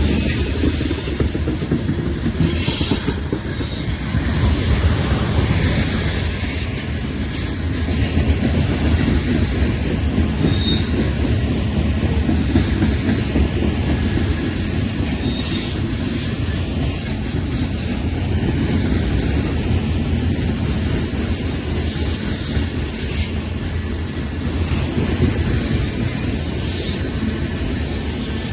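A train rolling steadily past close by: a constant rumble of wheels on the rails, with high-pitched wheel squeal coming and going.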